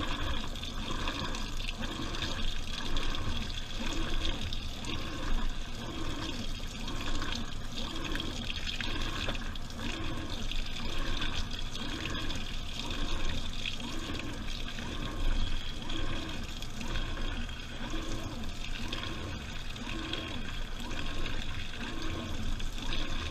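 Washing machine in its wash cycle, heard from inside the drum: water and laundry sloshing in a steady, regular rhythm as the drum turns.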